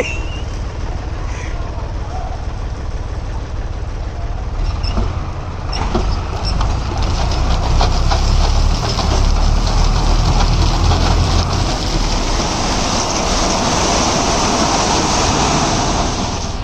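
Diesel engine of heavy earthmoving machinery running steadily with a low rumble, growing louder and harsher about six seconds in as it comes under load.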